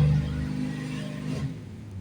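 Big-block 454 V8 of a 1986 Chevy Monte Carlo SS revving through its new exhaust system. It is loudest at the start, settles lower, and drops away about a second and a half in.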